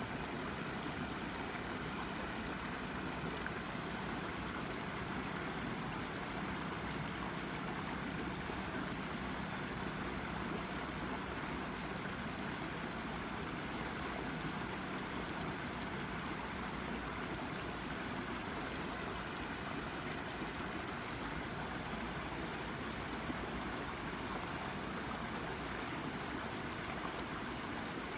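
Shallow brook babbling and gurgling over a rock, a steady, unbroken rush of running water.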